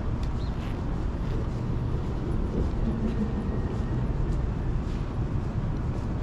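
Downtown city street ambience: a steady low rumble of passing vehicle traffic, with a few faint light ticks above it.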